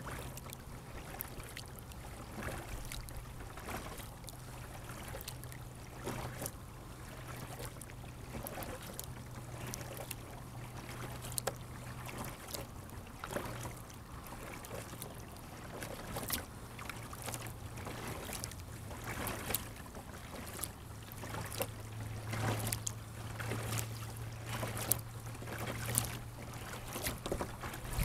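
Water splashing and dripping around a sit-on-top kayak on a lake: many small, irregular splashes and drips over a faint wash of water, with a steady low hum underneath.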